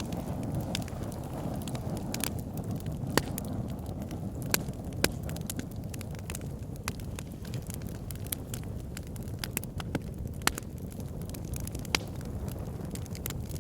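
Wood fire burning in an outdoor fire pit, with a steady low rumble and sharp crackles and pops at irregular intervals.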